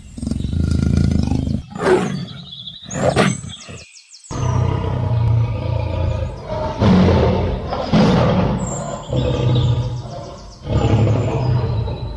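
A big cat roaring in a series of deep, drawn-out calls. The series is broken by an abrupt cut about four seconds in, then carries on.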